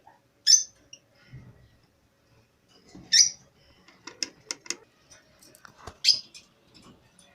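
Caged pet birds calling: three loud, short, high calls about three seconds apart, with a quick run of short sharp chirps between the second and third.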